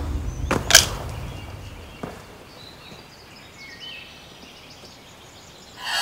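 Outdoor ambience with scattered faint bird chirps. A low rumble fades out in the first second or two, with two sharp cracks just under a second in and a weaker one about two seconds in.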